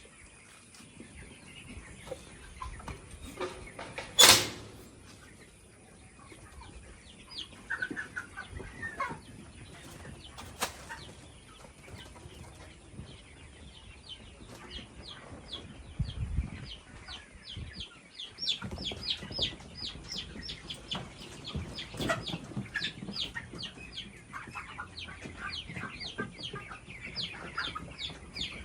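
A flock of chickens calling, with a dense run of short high-pitched calls several times a second through the second half. One sharp knock about four seconds in is the loudest sound.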